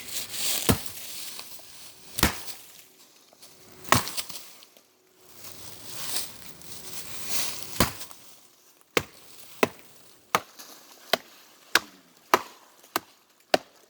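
Wood being chopped with repeated blows. First come four heavy strikes a couple of seconds apart, each with a swish around it. Then, from about nine seconds in, a quicker run of about eight sharper chops.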